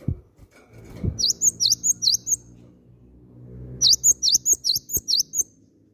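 Cinereous tit (gelatik batu) singing two quick bouts of sharp, repeated high notes, about four then about seven. Two dull knocks sound near the start.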